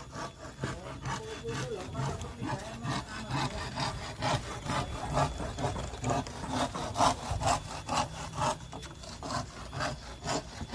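Repeated scraping or rubbing strokes, roughly two a second, like a saw working through wood.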